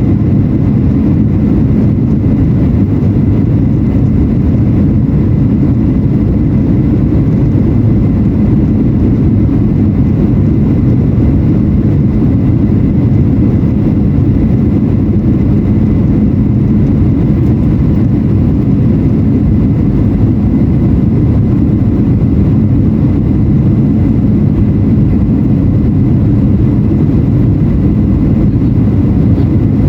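Steady cabin noise inside a Boeing 737-800 in flight: the deep rumble of its CFM56-7B engines and the airflow over the fuselage, with faint steady tones above it.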